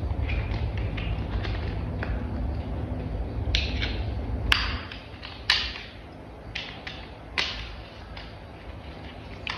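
Plastic toy parts being handled and snapped together: a few sharp clicks in the second half, with lighter ticks between, over a low steady rumble.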